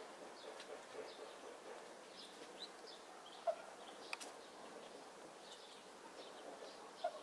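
Faint outdoor ambience with small birds chirping on and off, and a few short, sharper sounds about halfway through and near the end.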